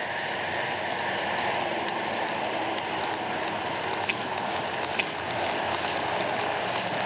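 Steady road and wind noise of a police car moving at speed during a pursuit, with two short sharp clicks about four and five seconds in.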